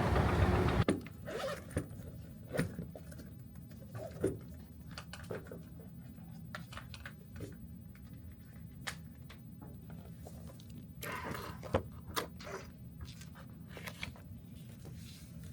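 A loud rushing noise that cuts off under a second in, then scattered light clicks and taps of small objects being handled in a quiet room.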